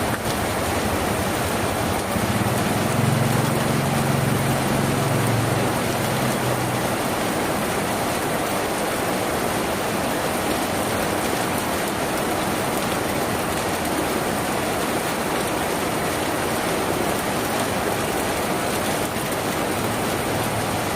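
Steady rain falling on a tin roof. A low rumble joins it about two seconds in and fades out by about seven seconds.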